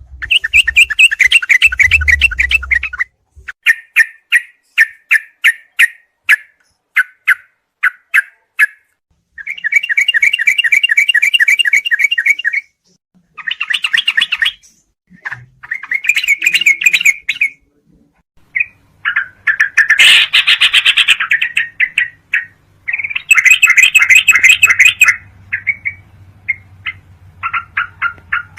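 Sooty-headed bulbul (trucuk) singing in bouts of fast chattering trills and quick runs of repeated notes, broken by short pauses. A faint low hum sits under the second half.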